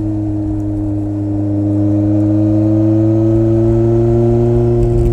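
Honda CB400 Super Four's inline-four engine pulling in gear under the rider. Its pitch climbs slowly as the bike gathers speed, then holds steady near the end.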